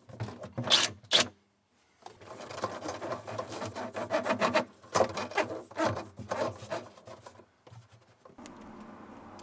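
Hands working on parts of the install: two sharp knocks about a second in, then several seconds of quick rubbing and scraping strokes, like hose or plastic being worked into place.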